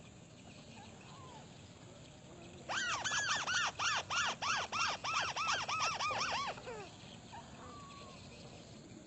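White-browed crake calling: a run of about fifteen quick notes, each rising and falling in pitch, about four a second, lasting some four seconds from near the third second, over a steady high insect drone.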